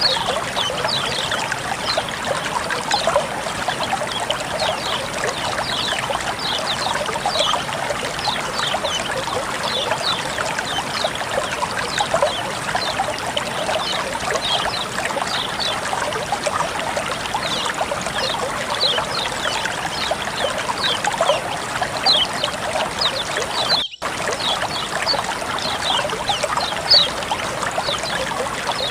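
Running water flowing and trickling steadily, with many quick high plinks and gurgles over it. About 24 seconds in there is a momentary break in the sound.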